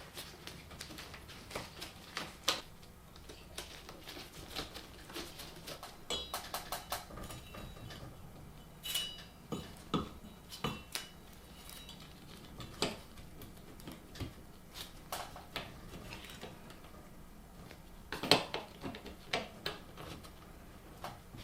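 Irregular clicks, taps and light metallic clinks from handling ceiling fan mounting hardware and parts, a few with a short ring, and one louder knock about 18 seconds in.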